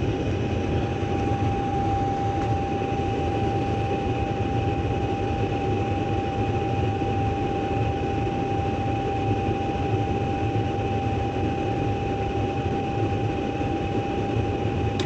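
Gas furnace running: a steady rush of burner and blower air with a steady high whine over it.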